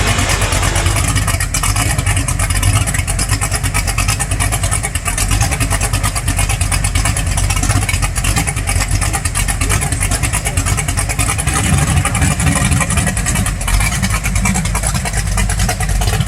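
A car engine running loudly and steadily.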